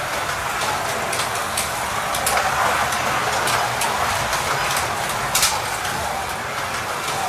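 Carrera Digital slot cars racing around a plastic track: small electric motors whirring and guide braids running on the rails, with scattered sharp clicks as the cars pass over the track.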